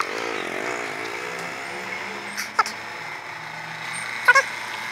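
Petrol being poured from a bottle into an empty motorcycle fuel tank, a steady splashing pour. There are short, sharp chirps about halfway through and near the end.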